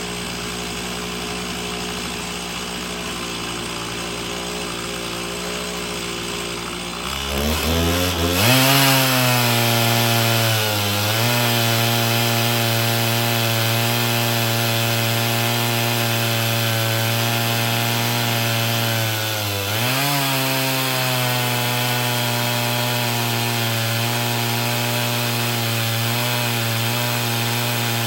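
Two-stroke chainsaw in an Alaskan chainsaw mill idling, then revving up about seven seconds in and running at full throttle through a rip cut. Its pitch sags under load and recovers twice.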